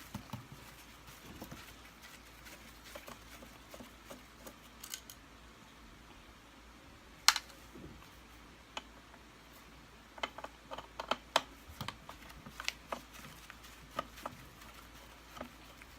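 Scattered small clicks and taps of plastic and metal parts being handled as a vacuum cleaner's light fitting is taken apart by hand. There is one sharp click about seven seconds in, and a quick run of clicks a few seconds later.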